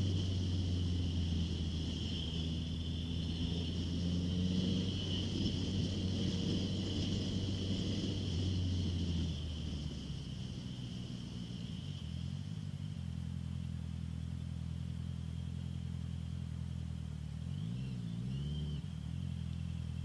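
Honda CBR650F inline-four engine through an Akrapovic full exhaust, running on the move. It holds a steady note, drops to a lower note about nine seconds in, and near the end the revs rise and fall twice.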